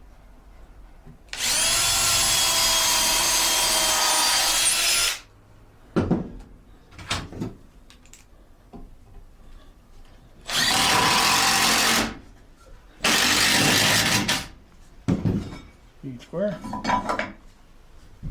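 Power drill running into wood in three runs, a long one of about four seconds and then two short ones later, with knocks and handling of boards between them.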